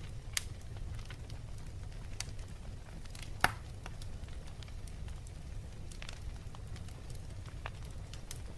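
Wood fire crackling in a fireplace over a low steady rumble, with scattered snaps and one loud pop about three and a half seconds in.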